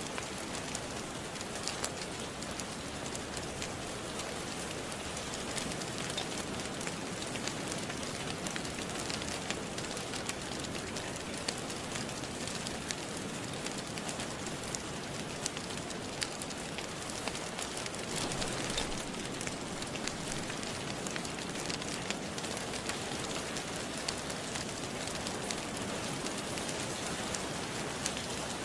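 Steady rain, with many small sharp crackles of a wood fire scattered through it.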